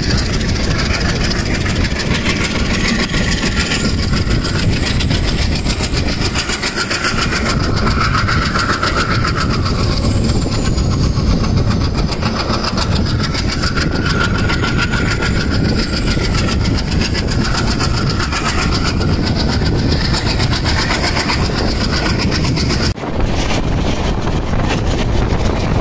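Diesel-hauled passenger train running at speed, heard from an open coach door: steady wheel-and-rail noise with the locomotives' diesel engines. A thin high squeal dips and rises partway through, and the sound breaks off briefly near the end.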